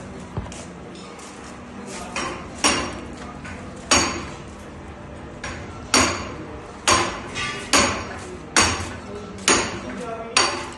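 Repeated sharp metallic clanks, each ringing briefly, coming roughly once a second from about two seconds in, over a steady low background hum.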